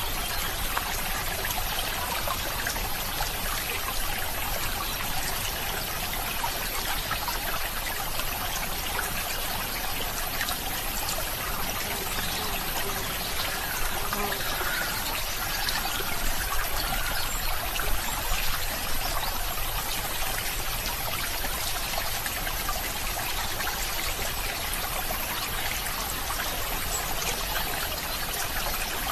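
Running water of a small stream trickling and burbling steadily.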